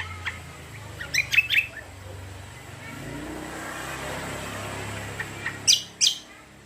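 Cucak kombo leafbird giving short, sharp chirps in two quick clusters, about a second in and again near the end, over a rushing noise that swells and fades in the middle.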